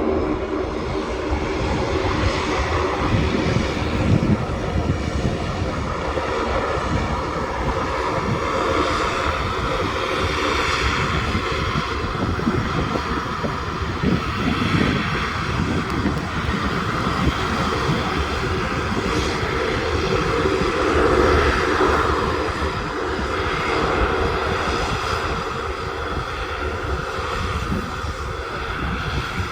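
Fixed-wing aircraft engines running loud and steady, a continuous rumble with a steady droning tone over it.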